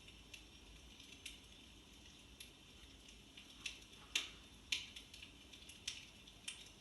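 Electric fireplace's built-in crackle sound effect: faint, irregular pops and snaps like burning logs over a low hiss, with a few louder snaps past the middle.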